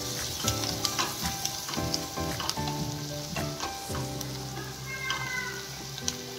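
Chopped onion, chilies and spices sizzling in hot oil in a pan while being stirred with a wooden spatula, which scrapes and knocks against the pan in quick clicks. This is the sauté stage of a zunka tempering. Background music plays underneath.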